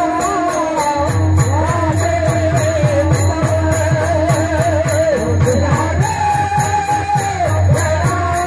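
Devotional bhajan music: small hand cymbals clashing in a fast, steady rhythm with repeated low drum beats beneath a held, wavering melody line that glides between notes and steps up in pitch about six seconds in.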